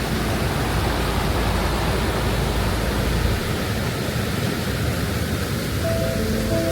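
Steady roar of a waterfall's rushing water. A few soft music notes come in near the end.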